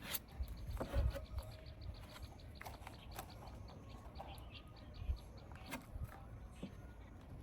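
Faint, rapid, evenly spaced high chirping, several chirps a second, from a small animal, with a few scattered knocks and clicks.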